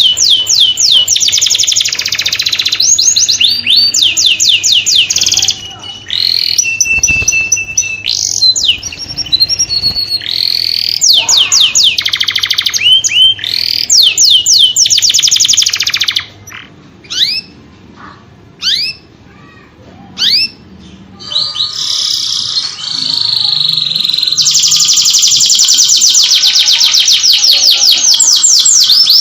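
Domestic canary singing in phrases of fast trills, rapid runs of repeated high chirping notes. About halfway through the song goes quiet for a few seconds, then runs into one long, unbroken trill near the end.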